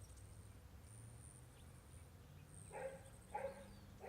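Mostly quiet room tone, with three short faint animal calls, like barks, in the last second and a half.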